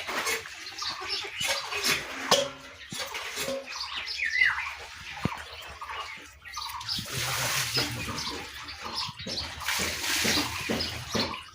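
Irregular splashing and pouring water, with scattered clicks and knocks.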